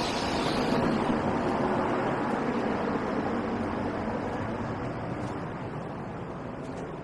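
Line 1 electric commuter train running on the track beside the platform, a steady wheel-and-track noise that slowly fades as it moves away.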